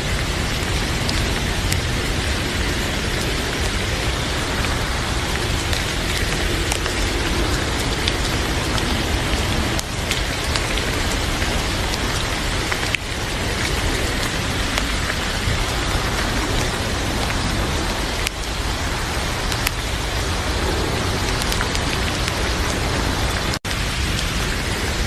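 Heavy rain falling steadily, an even hiss, with a few sharp clicks scattered through it. The sound drops out for an instant near the end.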